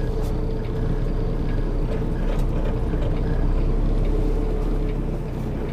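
Semi truck's diesel engine running, heard from inside the cab as the tractor-trailer manoeuvres; it pulls a little harder from about three to five seconds in, then eases off near the end.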